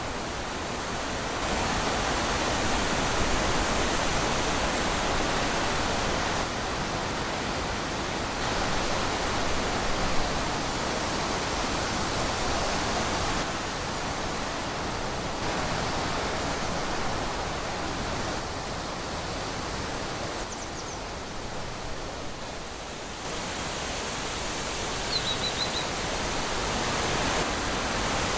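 Wind blowing through forest trees, a steady rushing that swells and eases in slow gusts. Two faint short high chirps come through it, about two-thirds of the way in and near the end.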